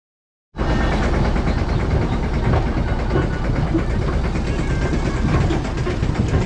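Tractor engine running steadily while towing a farm trolley, with the trolley rattling; it cuts in suddenly about half a second in.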